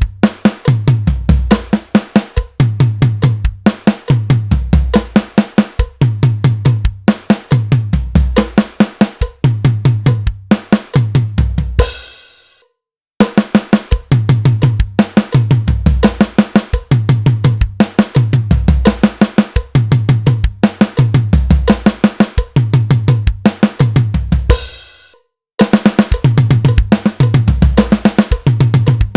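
Acoustic drum kit playing a steady groove of kick, snare and cymbals, with a 16th-note fill across the snare and toms at the end of each phrase. The playing stops twice on a ringing cymbal hit, then starts again.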